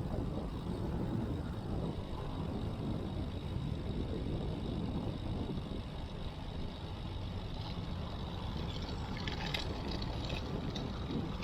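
Steady low rumble of riding noise on a moving road bike, tyres on the road and wind across a chest-mounted action camera. A short run of light high ticks comes about nine seconds in.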